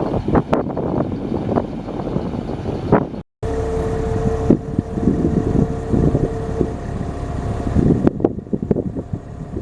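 1999 GMC 7500 medium-duty truck running, with wind buffeting the microphone. After a short break about a third of the way in, a steady whine runs over the engine noise for about three seconds and then stops.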